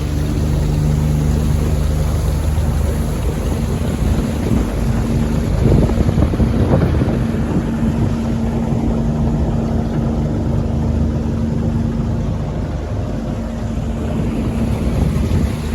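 Boat motor running steadily on the water, with wind noise on the microphone.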